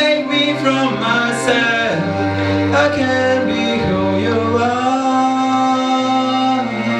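A male singer holds long, drawn-out notes over soft instrumental backing, in the closing lines of a song.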